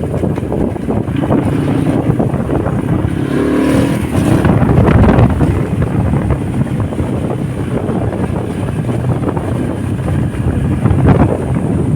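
Motorcycle engine running while riding, with wind rushing over the microphone; the engine revs up briefly a few seconds in.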